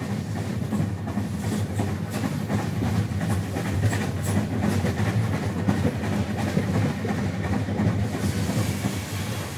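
A train running steadily along the track as a locomotive hauls a rake of stone wagons, a continuous rumble with faint clicking of wheels over the rail joints.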